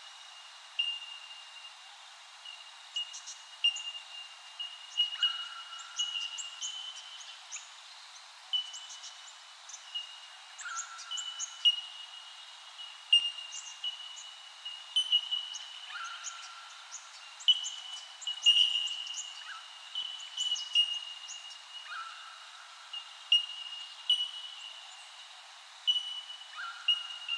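Birds calling in a chorus: many short, high piping notes at about the same pitch repeated throughout, a lower drawn-out call about every five to six seconds, and small chirps above.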